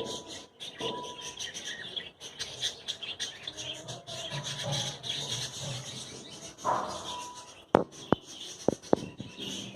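A group of birds chirping and twittering together in a continuous chatter, with a few short whistled notes. Near the end come several sharp taps or clicks, louder than the chirping.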